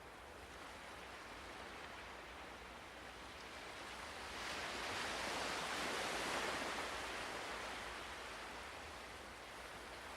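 Ocean surf: a steady wash of waves that swells with one wave about halfway through, then ebbs away again.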